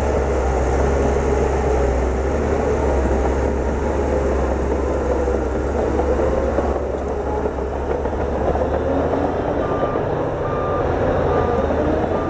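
Bulldozer's diesel engine running steadily under load, with a reversing alarm beeping repeatedly, about one and a half beeps a second, over the last few seconds.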